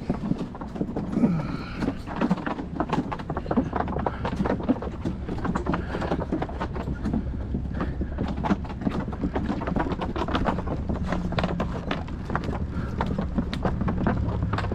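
Bicycle being ridden: a dense, uneven run of clicks and rattles from the bike and its tyres over a steady low rumble.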